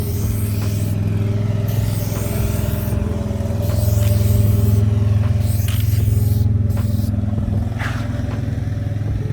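Car engine running steadily, swelling a little louder in the middle.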